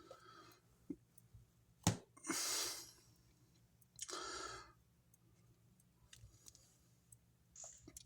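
Quiet desk handling of card-making supplies: one sharp click about two seconds in, then two short, soft hissing rushes, one right after the click and one about four seconds in, with faint small ticks between.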